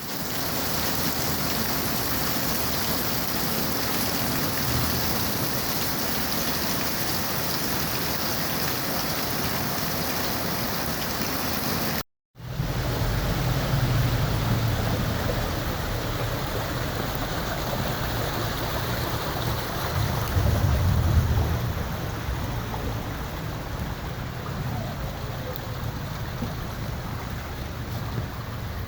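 Steady rush of wind and water noise. After a brief cut about twelve seconds in it resumes with a low rumble added, loudest about twenty seconds in.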